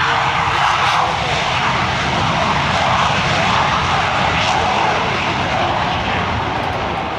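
Lockheed F-117 Nighthawk's twin General Electric F404 turbofan engines running at high power: a loud, steady jet rush that eases off slightly near the end.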